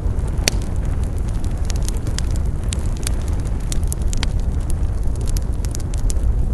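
Wood campfire crackling, with frequent irregular sharp pops and snaps over a steady low rumble. A loud pop comes about half a second in and another about four seconds in.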